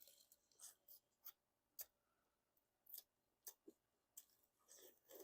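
Faint eating sounds: short, crisp chewing crunches and small mouth clicks, about a dozen scattered through, a little louder near the end.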